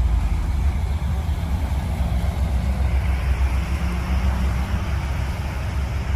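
Street traffic going by: a steady low engine and road rumble, with tyre hiss on a wet road swelling about halfway through as a vehicle passes.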